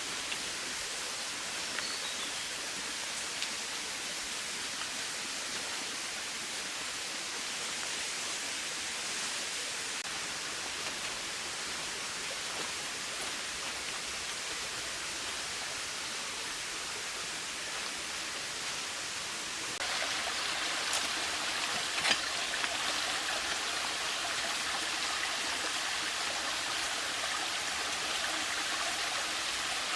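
Steady rushing of a forest stream's flowing water. It gets louder and fuller about two-thirds of the way through, and there is one sharp tick shortly after.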